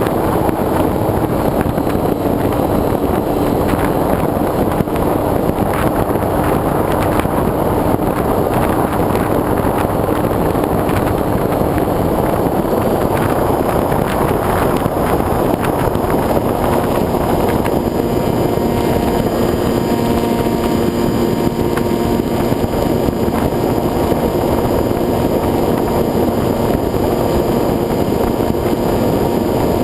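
Wind rushing over a wing-mounted camera on a flying foam RC airplane, with the steady hum of its motor and propeller underneath. The hum's pitch shifts about two-thirds of the way through, where a few more steady tones join in.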